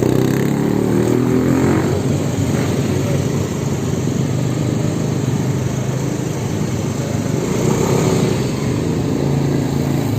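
Electric motorbike being ridden: a steady low rumble with a hum, easing a little in the middle.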